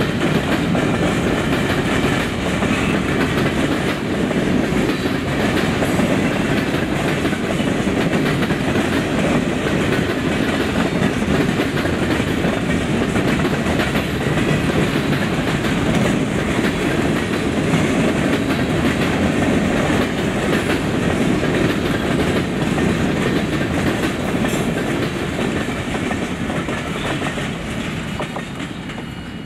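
A train's cars rolling past on the rails, a steady loud rumble that fades away over the last few seconds.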